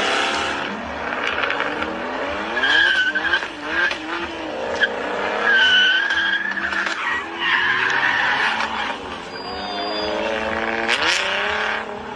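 A car engine revving hard, its pitch climbing again and again through gear changes, with tyres squealing twice, about three and six seconds in. A sharp crack near the end.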